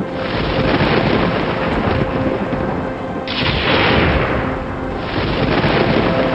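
Thunderstorm: steady rain with rumbling thunder, and a sharp thunderclap about three seconds in that fades back into the rumble.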